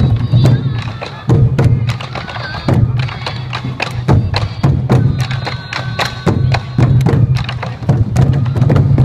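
Sansa odori festival music: a group of taiko drums beating a fast, driving rhythm, with sharp clicking strikes mixed in, under a high bamboo flute (fue) melody.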